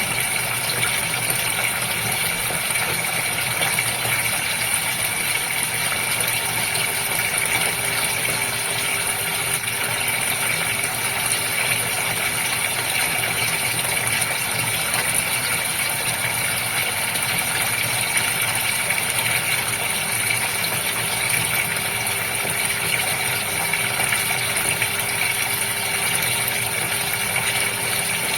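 Goldfish aquarium's filter running: water splashing and bubbling without a break, with a steady hum from the pump.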